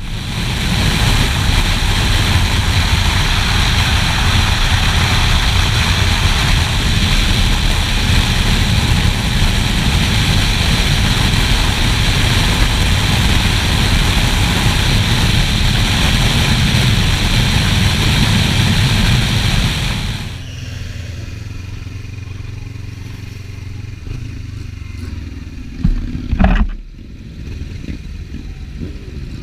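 Motorcycle riding at speed, its engine running under heavy wind noise on the microphone. About twenty seconds in the noise drops as the bike slows, and a short sharp knock sounds near the end.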